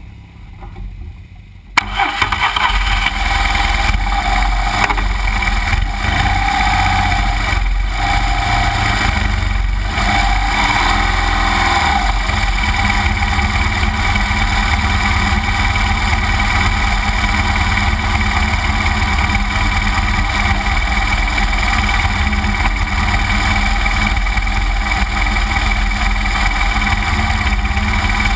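2009 BMW R1200GS Adventure's boxer-twin engine running steadily under load as the motorcycle climbs a rough dirt trail, heard from a camera mounted on the bike. The sound comes in sharply just before two seconds in, after a quieter start.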